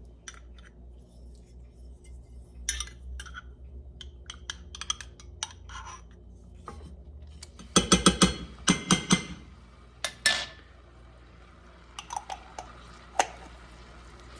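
A metal spoon clinking and tapping against a jar and skillet while minced garlic is scooped into melting butter, with a quick run of sharp taps about eight seconds in and single knocks after it.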